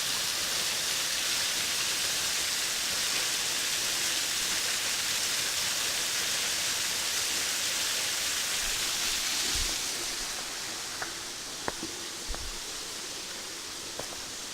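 Steady rush of falling water from a waterfall running low in the dry season, a little quieter after about ten seconds. A few light clicks near the end.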